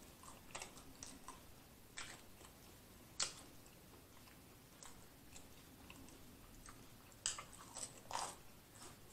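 Close-up chewing of toasted garlic bread: quiet mouth sounds with scattered crisp crunches, the sharpest about three seconds in and two more near the end.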